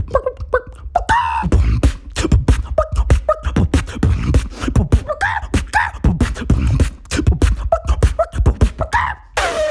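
Beatboxing: a fast, dense vocal beat of mouth-made kick drums, snares and clicks, mixed with short rising and falling sung glides. Near the end the beat breaks into one long held voiced tone that slowly falls in pitch.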